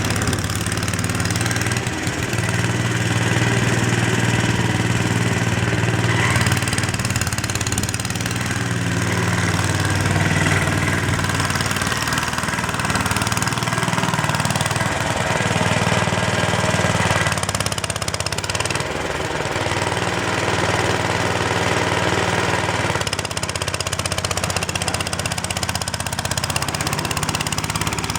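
Mayrath mini tractor's 8-horsepower Briggs & Stratton single-cylinder engine running steadily, its pitch shifting a few times along the way.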